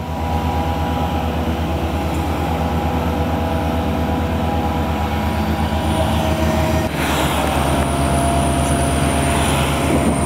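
Sewer-cleaning truck's engine running steadily: a low, rapid throb with faint steady whining tones above it. The throb shifts in character about seven seconds in.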